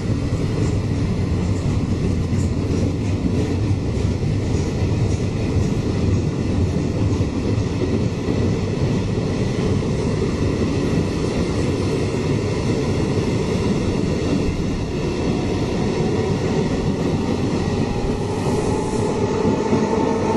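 A train running on the track at a railway station: a steady, loud rumble of wheels on rails, with faint clicks in the first few seconds.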